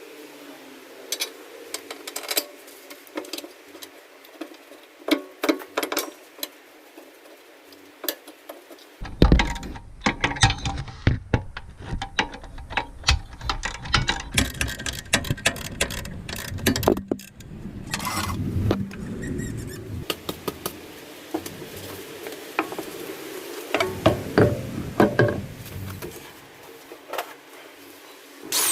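Irregular clicks and knocks of hand tools and metal parts being handled while working on a car's rear brake. A low rumbling handling noise joins in through the middle stretch.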